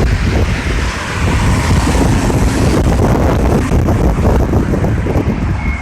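Wind buffeting the microphone: a loud, uneven rush that is heaviest at the low end.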